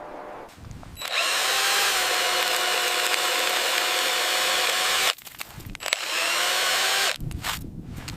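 A drill-like motor whirring with a faint steady tone, running for about four seconds from a second in, cutting off sharply, then running again for about a second.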